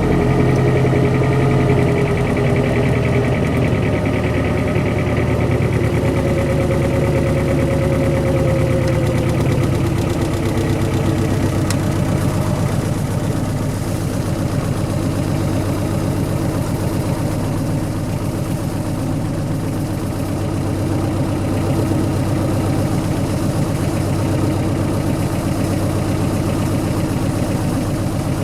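1991 Honda Civic's D15 single-cam four-cylinder engine idling just after a cold start at −25 °C, on regular 10W-30 oil without a block heater. A whine over the engine in the first ten seconds or so drops slightly in pitch and fades out.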